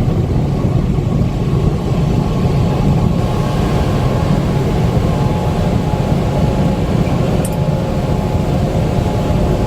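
Steady engine and road noise heard from inside a semi truck's cab while driving at highway speed, a constant low rumble.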